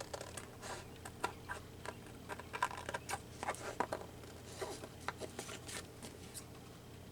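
Scissors trimming the edge of a paper postcard: a run of irregular short snips with paper rustling between them.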